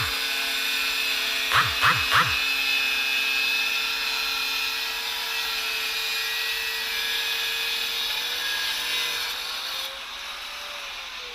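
A handheld electric power tool running steadily with a whine and a hiss, with three short sharp sounds about two seconds in. About ten seconds in the hiss drops away and the motor's pitch rises, then begins to fall as it winds down.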